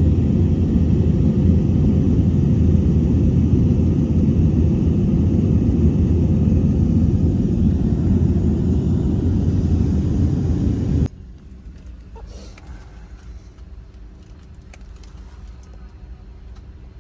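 Steady low rumble of a jet airliner's cabin in flight, which cuts off abruptly about eleven seconds in, leaving a much quieter background hum with a few faint clicks.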